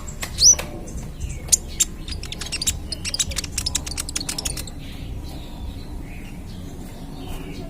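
Young kolibri ninja (konin) sunbird singing a rapid run of sharp, high chirps and clicks. A quick rising whistle comes about half a second in, and the song thins out after about five seconds.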